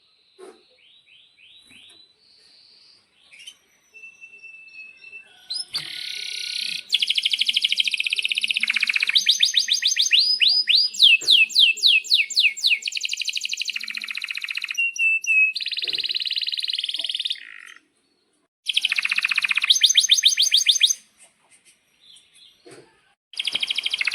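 Domestic canary singing long, loud phrases of fast trills and rapid rising whistled sweeps, soft scattered notes at first, then continuous song with a short pause in the middle.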